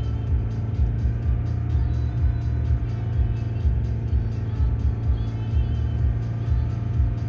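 Audi TT 2.0 TFSI engine running with a steady drone, with music playing over it.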